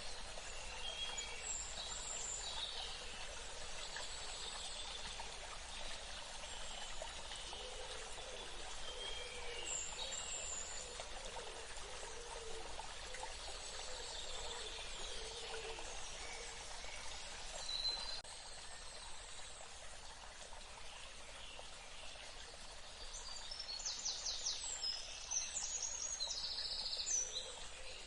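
Steady rush of flowing water, like a stream, with birds chirping now and then. A rapid, repeated high call comes in near the end.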